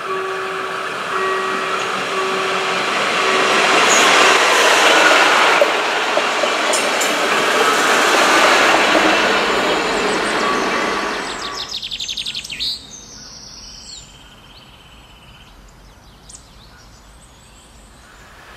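A Coradia LINT BR 648 diesel railcar passes close by. Its running noise builds, holds for several seconds and fades out about twelve seconds in. It leaves a quieter background with birds chirping.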